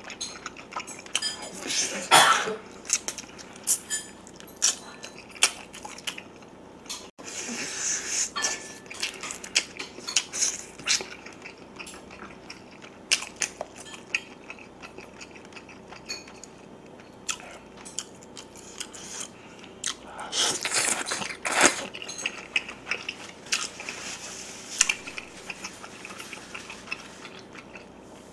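Close-miked chewing of soy-braised pork back ribs: many wet mouth clicks and smacks, with louder bursts about two seconds in, around eight seconds and around twenty-one seconds.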